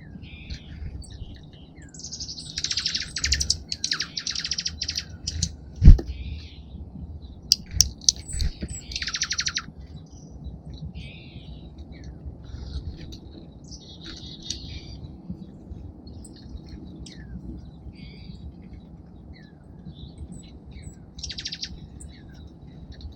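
Small songbirds at a seed feeder chirping and calling, with several short rapid trills. A sharp knock about six seconds in is the loudest sound, followed by a few lighter clicks.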